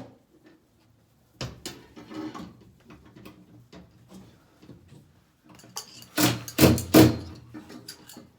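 Knocks and clunks from hands-on work on a suspended air-conditioner indoor unit, a couple early and a louder run of clattering knocks about six to seven seconds in.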